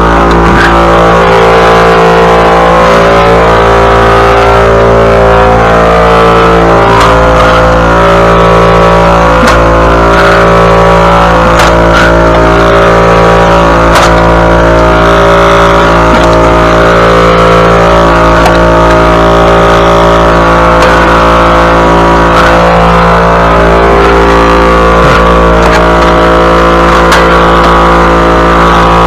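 Small gasoline engine running steadily at one constant speed, loud and close, with a few sharp ticks over it.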